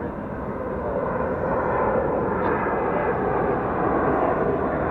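Jet airliner's engines at takeoff thrust: a loud, steady rush of noise, strongest in the low and middle range.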